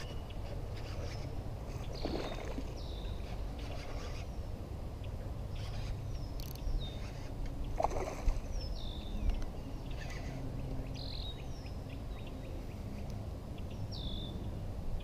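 Steady low rumble of open-air boat noise, with a bird repeatedly giving short, high, downward-sliding calls a few seconds apart and a few brief noises, the loudest about halfway through.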